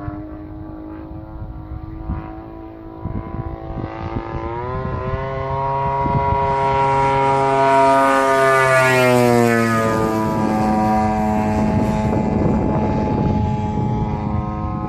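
Model airplane engine and propeller buzzing overhead. It rises in pitch and grows louder about four seconds in, then drops in pitch about ten seconds in as the plane passes, and carries on at a lower steady pitch.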